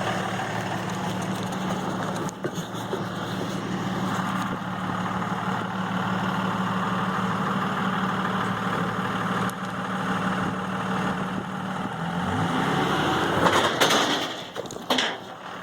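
Truck engine idling steadily, then revving up about twelve seconds in, followed by two short loud bursts of noise near the end.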